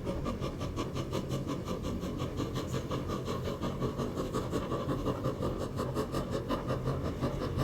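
Chinese QJ-class steam locomotive working hard up a steep grade, its exhaust beating in a rapid, even chuff of several beats a second over a low rumble.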